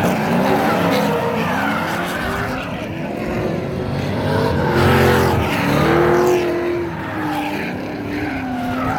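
Drift cars running on track: engines revving, with several pitches rising and falling over one another, and tyres skidding.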